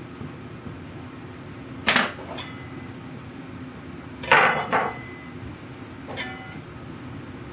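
Sharp metallic clinks and taps, about five in all, each with a brief ring: small metal hardware and tools being handled and tapped while the wooden tool chest is reassembled. The loudest come about two seconds in and a pair comes a little after four seconds. A steady low hum runs underneath.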